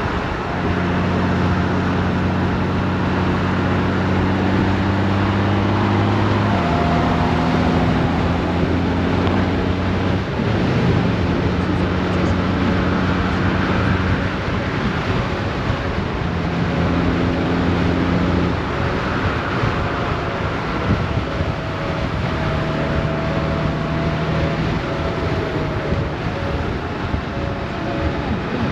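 Honda GoldWing DCT's flat-six engine running at cruising speed under wind and road noise, with steady engine tones that drop in pitch about six seconds in and shift again later as the dual-clutch gearbox changes gear.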